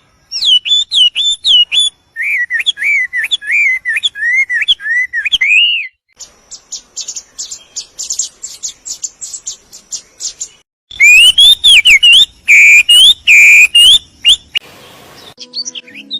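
Songs of several different songbirds spliced one after another, each cut off abruptly: first repeated clear whistled notes, then a fast rising-and-falling warble, then a rapid high chatter, then loud sweeping whistles, with a short burst of hiss near the end.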